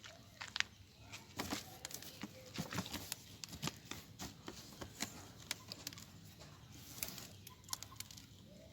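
Irregular rustling and scratching, with many short sharp clicks in quick uneven succession.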